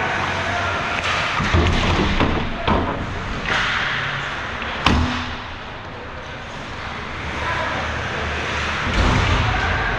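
Ice hockey play: a few sharp knocks of puck, sticks and players against the boards and glass, the loudest about five seconds in, with a brief hiss of skates scraping the ice.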